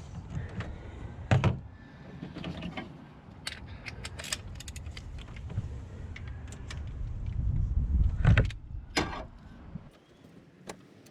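Scattered clicks and a few louder knocks of a screwdriver working a plastic sensor connector loose, over a low rumble.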